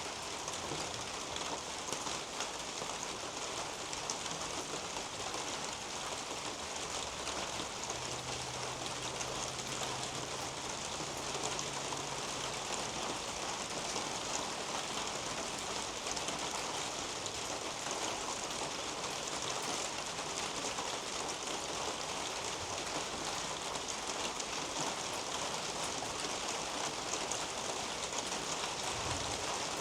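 Steady rain falling on garden foliage and soil: an even hiss with a dense patter of individual drops.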